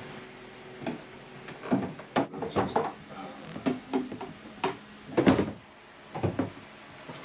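Irregular knocks and clunks, like boards, hatches or cupboard doors being moved and set down, about a dozen over several seconds, the loudest a heavier thump about five seconds in.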